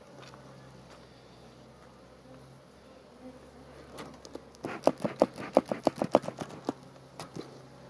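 Faint hum of honeybees around an open hive, then about halfway in a quick run of a dozen or so sharp clicks or knocks over roughly two seconds.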